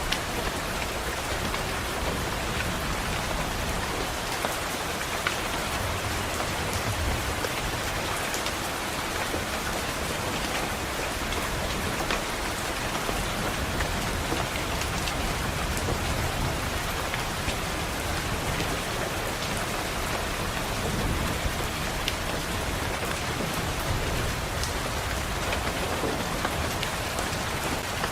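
Steady rain on a window, a dense even hiss with sharp little taps of single drops scattered through it.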